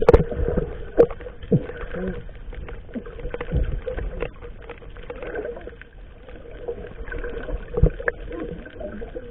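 Irregular knocks and thumps from work on a fishing boat as the net is handled, the loudest right at the start, another about a second in and one near the end, over a low rumble, with faint voices in the background.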